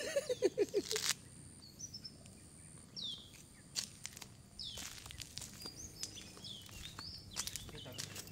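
Small birds chirping on and off: short, high calls that hook downward, repeated every second or two, with a few soft clicks and rustles in between.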